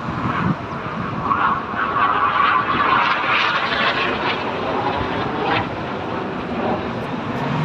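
Display aircraft flying past, its engine noise a steady rush that swells a couple of seconds in and then eases.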